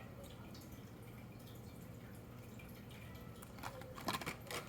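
Low steady hum, then a few light clicks and taps near the end: blister-packaged diecast toy cars being handled.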